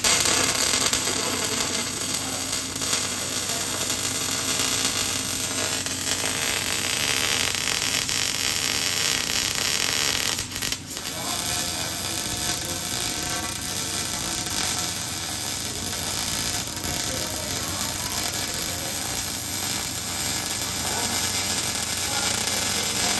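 Arc welding on a mud truck, running steadily with a short break about ten and a half seconds in.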